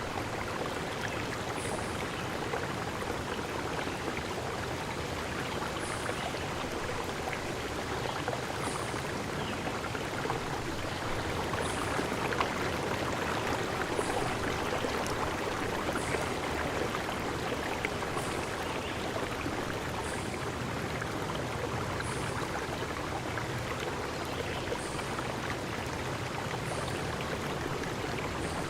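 A stream flowing with a steady rush of water. Faint short high chirps, likely from a bird or insect, recur every couple of seconds.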